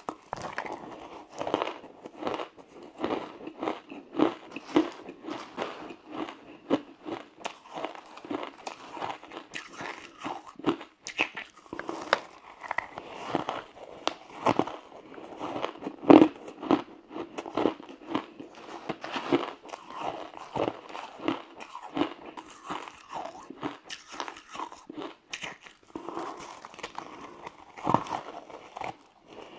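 Frozen matcha ice being bitten and chewed: a continuous run of sharp, cracking crunches, several a second, with one louder bite about halfway through.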